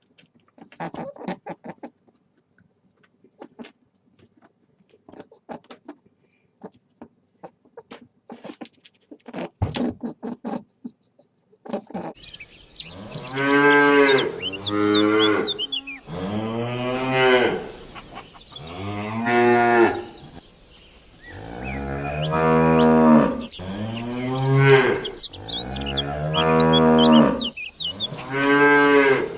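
Cattle mooing: a string of loud, drawn-out moos, some close together, beginning about twelve seconds in. Before that there are only faint, scattered short clicks and knocks.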